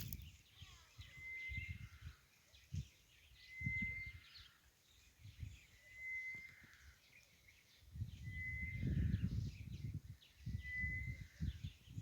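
A bird repeating a short, even whistled note about every two and a half seconds, with other birds chirping faintly. Low rumbling noise comes and goes, heaviest in the second half.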